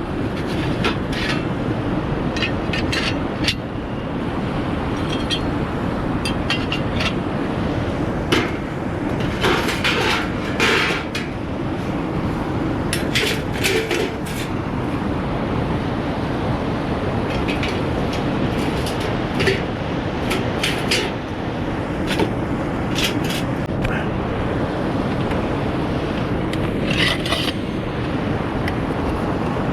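Metal parts of a Fall Mountain steel fire pit clinking, knocking and scraping as it is put together, many short sharp strikes, over the steady rush of a fast-flowing river.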